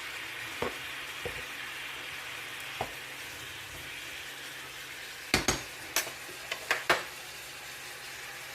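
Seasoned chicken sizzling in a frying pan while a fork stirs it, with a few light clicks of metal on the pan and then a quick run of sharper taps and scrapes about five to seven seconds in.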